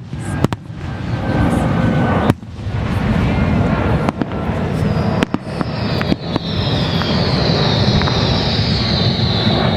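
Fireworks display: a continuous low rumble of bursts broken by several sharp cracking bangs. From about halfway a long high hiss slowly falls in pitch.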